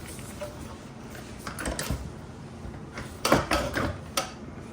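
Knocks and clatter as a Razor MX125 electric kids' motorcycle is handled and turned around, a few scattered bumps followed by a louder cluster of knocks a little after halfway.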